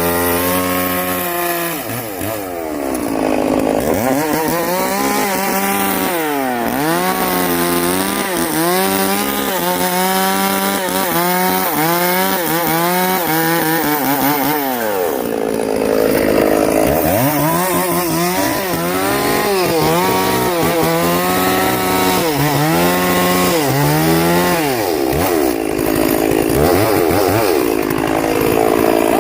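Chainsaw running and cutting wood. Its engine pitch dips and climbs again and again as it is pressed into the cut and revs free, with rougher stretches of sawing a few times.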